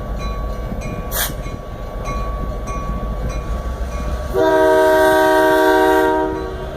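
Freight train's diesel locomotives rumbling low, then about four seconds in a long locomotive air-horn blast, a chord of several notes held for about two seconds before fading.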